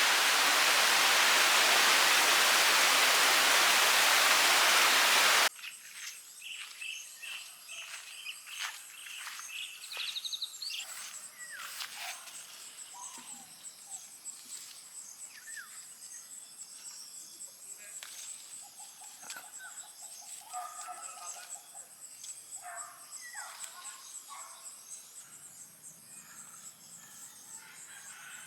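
A loud steady hiss for about the first five and a half seconds that cuts off suddenly. After it, birds chirping on and off over a steady high drone of insects.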